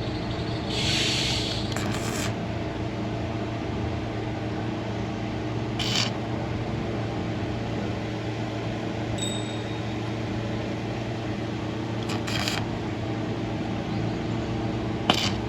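Car engine idling steadily. A few short hisses come through, and there is a sharp click near the end.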